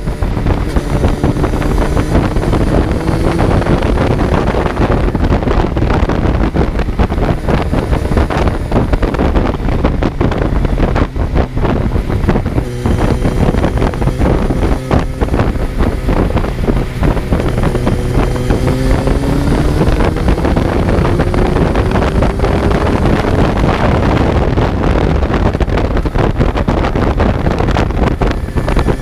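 Kawasaki Z900 motorcycle's inline-four engine pulling hard, its pitch climbing several times as it accelerates up through the gears, under heavy wind noise on the microphone.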